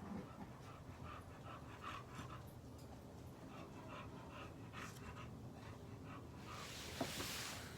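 Young pit bull puppies making short, repeated faint whimpers and breathing sounds. Near the end there is a brief rustling noise with a click.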